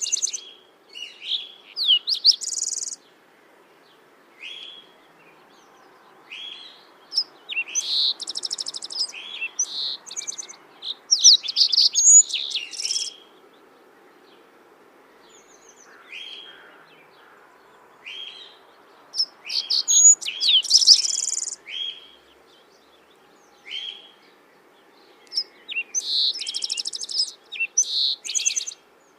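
Songbirds chirping and singing in repeated bursts of quick high notes and trills, with short pauses between phrases, over a faint steady background hiss.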